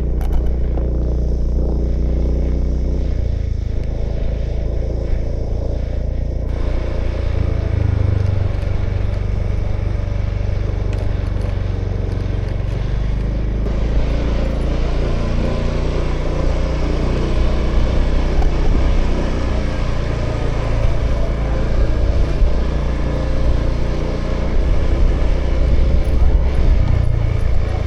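Honda Vision scooter's small single-cylinder engine running while riding along, its note shifting several times with speed, over a steady rush of wind and road noise.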